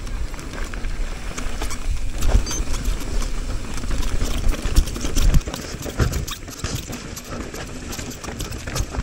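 Mountain bike clattering down a rough trail: tyres rumbling with many sharp knocks and rattles from the bike, and a run of hard knocks about five seconds in, after which it goes quieter.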